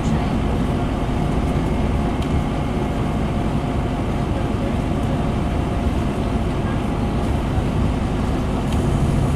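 Scania N230UD double-decker bus's diesel engine and drivetrain running steadily under way, with a constant drone and a faint steady whine and no marked change in revs.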